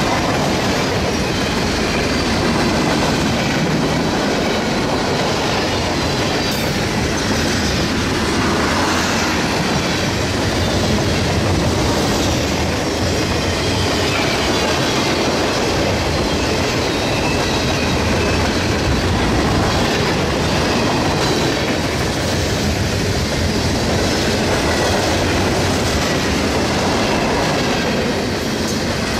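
Freight train cars (boxcars, tank cars and autoracks) rolling past close by: a steady, loud rumble of steel wheels on rail with clacking over the rail joints.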